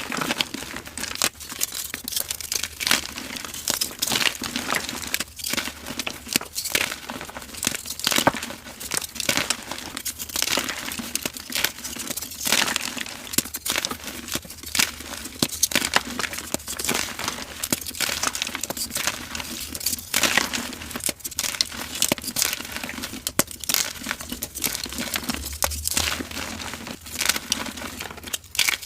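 Blocks of dyed gym chalk being crushed and crumbled, a dense run of dry crunchy crackles, several a second.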